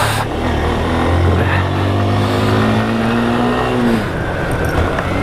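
Motorcycle engine running under way on a dirt mountain road, with wind and road noise on the microphone; about two seconds in the engine pitch rises and holds, then falls away near four seconds as the throttle is eased.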